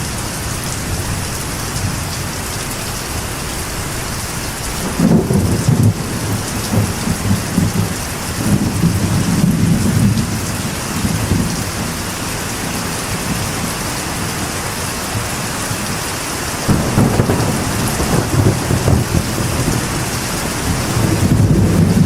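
Steady rain falling on a metal roof, with thunder rumbling in about five seconds in and again about three quarters of the way through.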